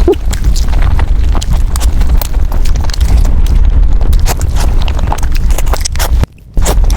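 Close-miked eating of bún bò Huế noodle soup: a quick, irregular run of wet mouth clicks and smacks over a steady low rumble, breaking off for a moment near the end.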